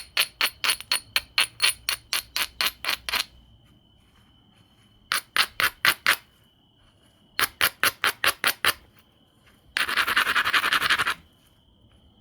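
Stone rubbing over the edge of an obsidian biface in quick strokes, about five a second, in three runs, then a short run of fast continuous scraping near the end: the edge being abraded to strengthen the striking platforms.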